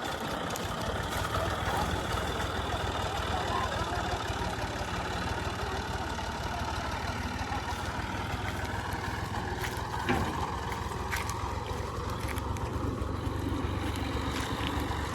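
Old combine harvester's diesel engine and machinery running steadily, with a single sharp knock about ten seconds in.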